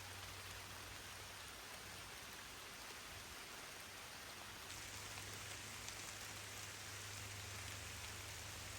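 Steady rain: an even hiss with faint scattered drop ticks. About halfway through it becomes a little louder and hissier.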